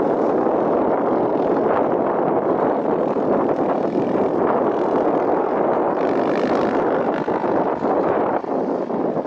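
Boeing 777-200's jet engines giving a loud, steady rush of noise as the airliner passes.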